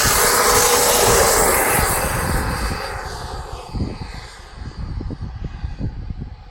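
Turbine-powered Yellow Aircraft F-18 model jet passing: a loud jet rush in the first two seconds that then fades away as it flies off. Wind thumps on the microphone throughout.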